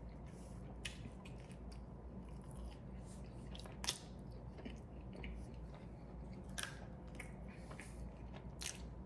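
Faint, close chewing of a mouthful of burger, with a few short wet mouth clicks now and then.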